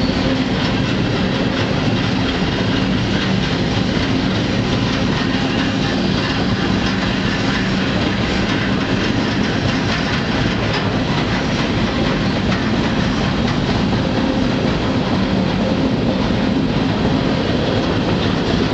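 Freight train in motion heard from aboard a railcar: a steady rumble of steel wheels on the rails with a running clickety-clack.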